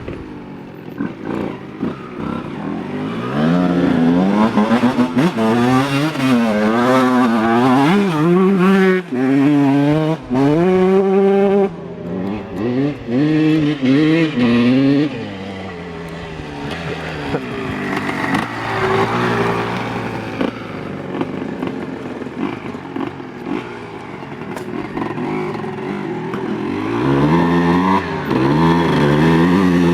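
Honda CR125 two-stroke motocross engine revving in quick, repeated rises and falls of pitch. It drops to a quieter, steadier running sound about halfway through, then builds up again near the end.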